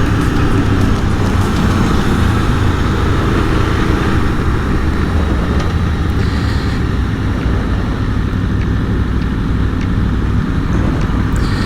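Aprilia Tuono V4 motorcycle's V4 engine running steadily at low revs, under a steady haze of wind and road noise.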